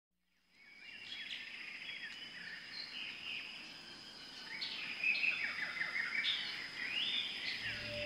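Several birds chirping and trilling in quick, overlapping phrases over a quiet outdoor background, with a thin steady high tone underneath. The sound fades in over the first second.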